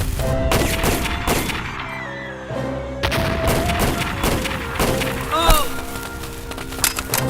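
Gunfire and blasts over dramatic background music with held notes: a string of sharp shots and booms, with a quick cluster near the end.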